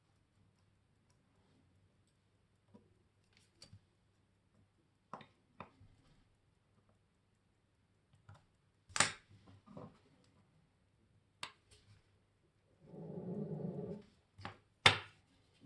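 Sparse, irregular small clicks and taps of tools and parts being handled during watch assembly, the sharpest about 9 s in and near the end, with a brief duller rustle about 13 seconds in.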